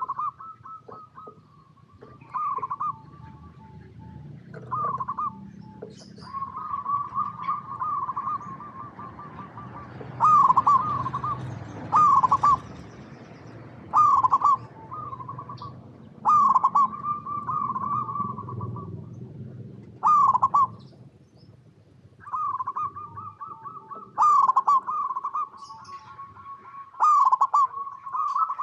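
Zebra doves (perkutut) cooing: repeated loud phrases of quick, rippling coo notes, coming every second or two. A steady low rumble runs underneath.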